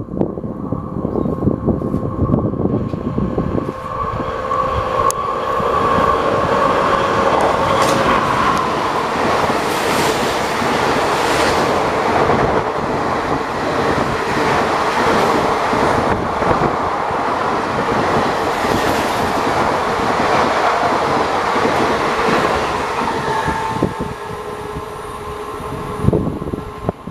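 WAP-4 electric locomotive and its passenger coaches running through a station at high speed: a steady tone rings over the approach, then the rushing noise and clickety-clack of the coaches passing close by. The noise drops away sharply near the end.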